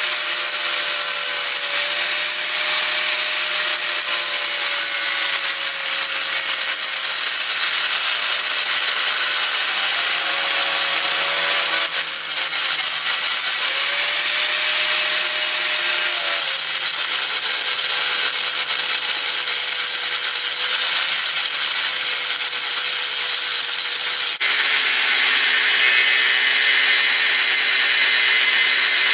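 Electric power tool cutting through a thick slab of 5160 spring steel: a loud, continuous grinding hiss over a motor whine whose pitch sags and recovers as the cut loads it, dropping to a lower pitch about 24 seconds in.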